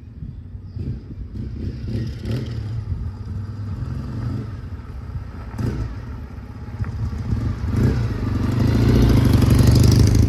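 Kawasaki W650 parallel-twin motorcycle engine running through a Posh W1 aftermarket exhaust, with a few short throttle surges and then a swell to its loudest near the end before it drops off.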